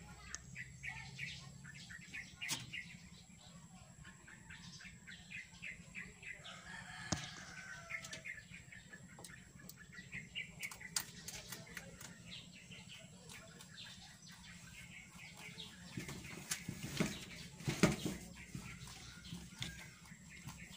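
Birds calling in the background: rapid short chirps through the first half and a longer, falling call about seven seconds in. Near the end come a few sharp knocks.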